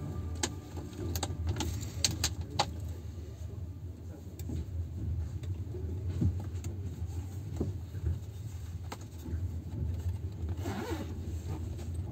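Steady low rumble inside a moving passenger train carriage, with scattered clicks and knocks and a short rattle near the end.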